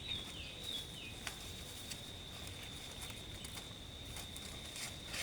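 Outdoor rural ambience: a steady, high insect drone, with a few short falling chirps in the first second and faint scattered clicks.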